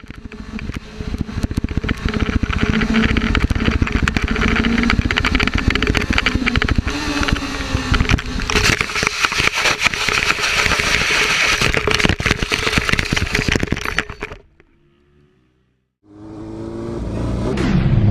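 Motorcycle engine running at speed under a dense, crackling rush of noise. About fourteen seconds in it cuts off abruptly to near silence. Another engine sound then rises near the end.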